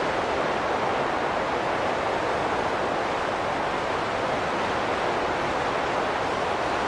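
Steady wind noise: an even hiss that holds level throughout, with no gusts and no whistling tone.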